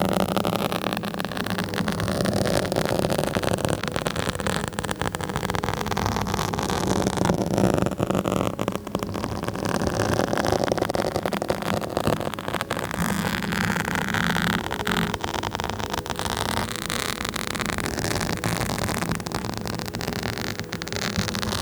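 Fingers or nails scratching directly on a microphone: a continuous, dense crackling scratch full of fine clicks, without a break.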